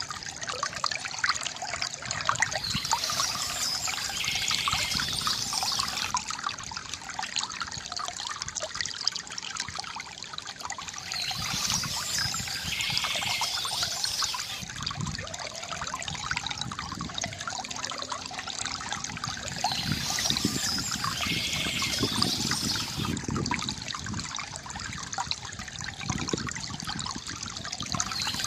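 A small stream trickling and splashing steadily, with a bird singing in three bursts of a few seconds each, about eight seconds apart.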